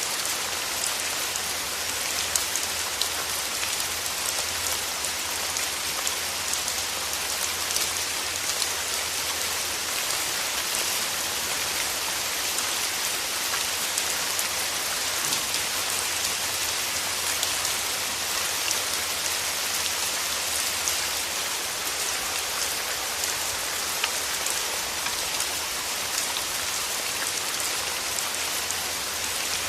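Steady rain falling through forest trees: an even hiss with many individual drops ticking through it.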